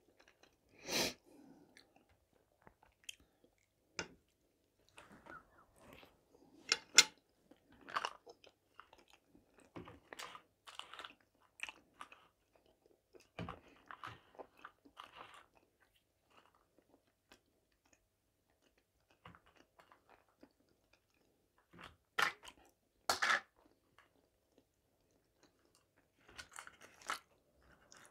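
Close-miked chewing and mouth sounds of someone eating soft boiled vareniki (potato dumplings) with sour cream. Sharp clicks of a fork against the plate come now and then, with a few quiet pauses between mouthfuls.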